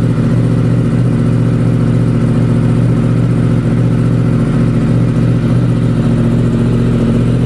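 Yamaha R1M's crossplane inline-four engine idling steadily.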